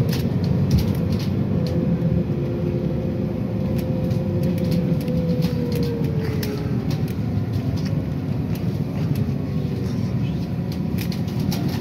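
City bus running, heard from inside: a steady low rumble with a whining drive tone that falls in pitch about halfway through, and frequent small rattles and clicks from the bodywork.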